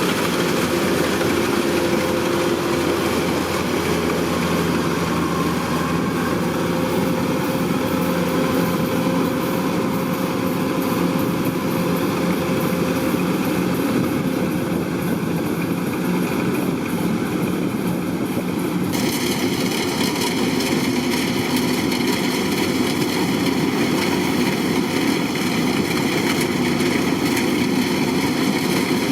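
Kubota DC-105X combine harvester running steadily as it harvests rice: a continuous engine and machinery hum. About two-thirds of the way through, the sound changes abruptly and a higher whine joins in.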